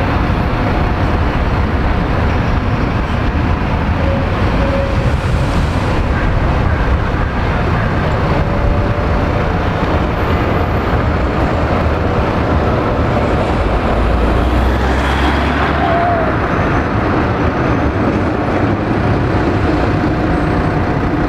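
City road traffic running steadily past, a continuous rumble of motor vehicles, with a heavier low rumble of a larger vehicle going by about two-thirds of the way through.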